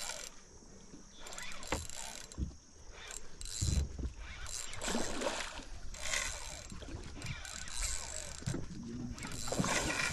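Irregular knocks, low thumps and rustling handling noise on a small fishing boat.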